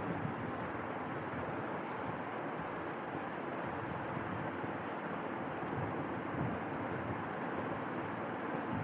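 Steady rushing noise with no distinct calls or events.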